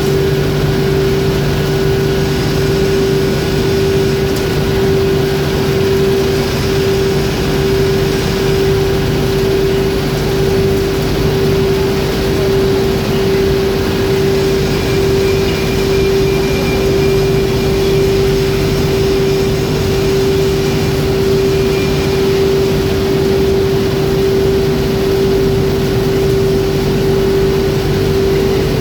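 Foundry machinery running with a loud, steady drone: a constant mid-pitched hum over a lower hum and a wash of noise, unchanging throughout.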